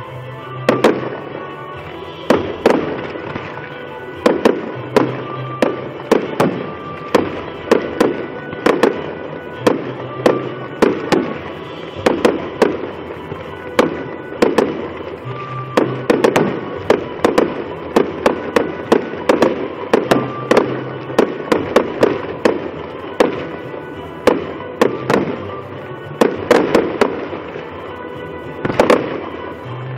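Aerial fireworks shells bursting in rapid succession, sharp bangs coming about twice a second, with music playing underneath.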